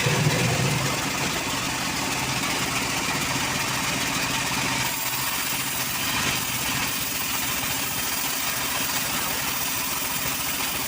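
Engine idling steadily, its tone shifting slightly about five seconds in.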